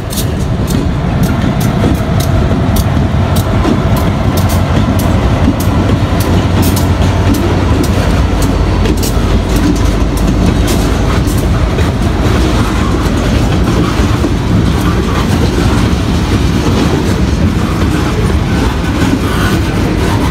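Freight train rolling past at close range: lumber-loaded centerbeam flatcars with wheels clicking over rail joints at about two clicks a second, over a steady low rumble.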